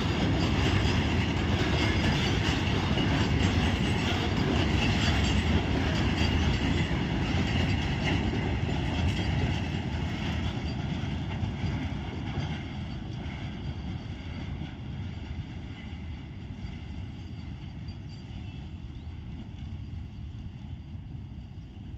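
Loaded goods train of capsule wagons rolling past, wheels rumbling and clattering over the rail joints, fading away over the second half as the wagons pass and recede.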